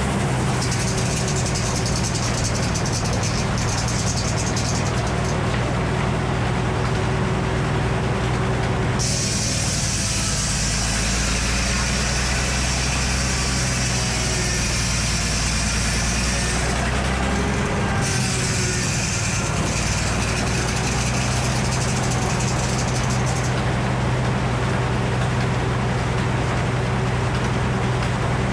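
Engine of a circular sawmill running steadily, with a high hiss that comes and goes partway through.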